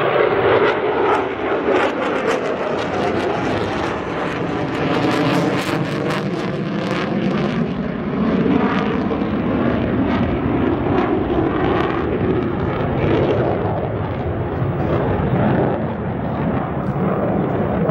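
Boeing EA-18G Growler's twin jet engines heard loud and continuous as the jet flies its display, the tone sweeping up and down as it passes.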